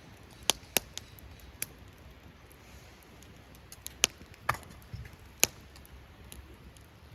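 Wood campfire crackling: irregular sharp pops over a low background, a few near the start and a cluster around four to five and a half seconds in.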